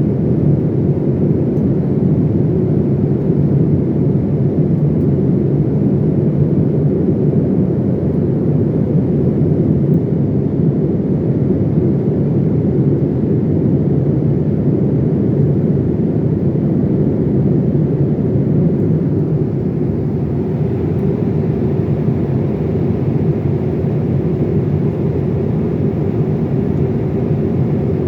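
Steady low cabin noise of an airliner in flight: engine and airflow noise heard from inside the passenger cabin, even throughout.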